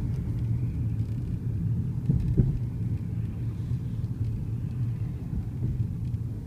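Low, steady rumble of a Volkswagen Passat CC on the move, with a few faint short clicks and a brief louder bump about two seconds in.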